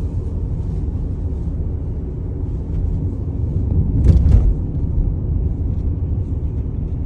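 Car road noise heard from inside the cabin: a steady low rumble of tyres and engine, briefly swelling louder about four seconds in.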